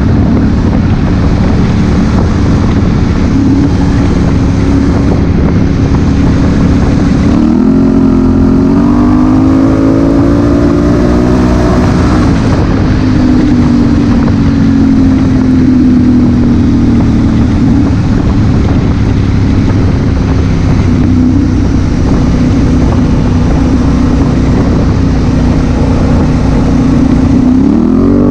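Honda Africa Twin CRF1000L's parallel-twin engine running under way over loud wind rush. The revs climb sharply about seven seconds in, slowly fall away, and climb again near the end.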